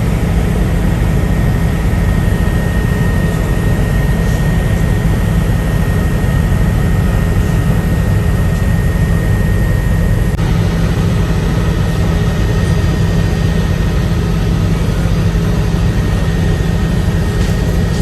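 Helicopter in flight, heard from inside the cabin: a loud, steady low drone of rotor and engine with a thin high whine over it.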